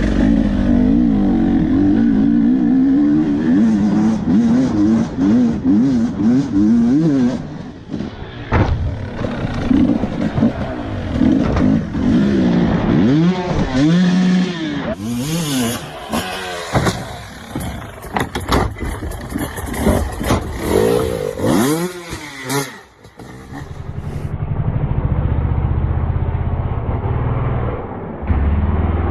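Motocross dirt bike engine revving up and down, its pitch rising and falling repeatedly, with clattering and knocks mixed in. About two thirds of the way through the sound changes abruptly to a duller, lower engine rumble.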